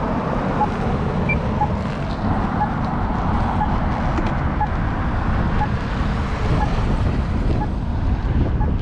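Steady wind and road rumble on an action camera riding an electric bike, with motor traffic alongside and a small tick about once a second.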